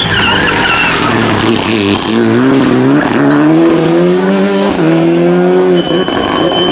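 Rally car engine accelerating hard, its pitch climbing through the revs with a quick gearshift about five seconds in. Tyres squeal briefly at the start and again near the end.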